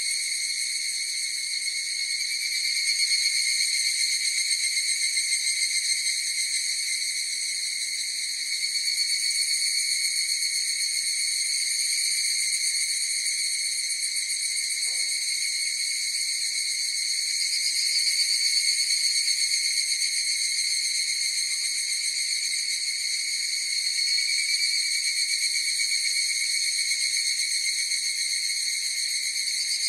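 A chorus of higurashi (evening cicadas, Tanna japonensis) calling without a break, a steady high ringing drone that swells and eases a little every several seconds.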